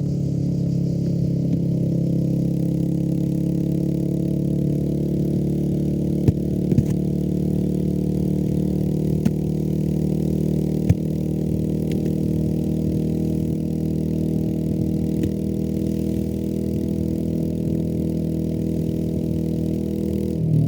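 Royal Enfield Meteor 350's single-cylinder engine running through a G.P.R aftermarket exhaust with its dB killer fitted, holding a steady, even note with a few short clicks in the middle.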